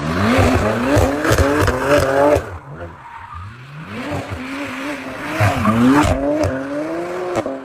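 Performance car engine revving hard, its pitch climbing, then dropping away suddenly after about two and a half seconds. It picks up and climbs again, with a short dip in pitch and sharp pops scattered through.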